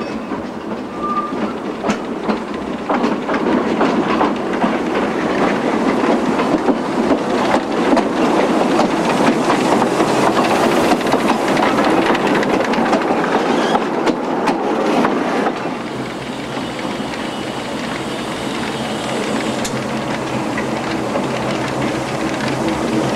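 Narrow-gauge steam train with 0-6-2 well tank locomotive Graf Schwerin-Löwitz rolling slowly into the station, its coach wheels clicking and clattering over the rail joints. A steady low tone joins near the end.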